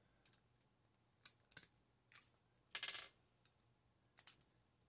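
Faint, sharp clicks of small metal parts and hand tools being handled while a microwave's parts are taken apart, about six in all. One is a short metallic rattle about three seconds in.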